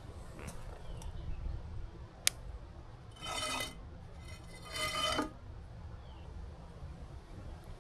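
Cutlery on a plate during a meal: a single sharp clink about two seconds in, then two half-second scrapes with a squealing ring, over a low steady background rumble.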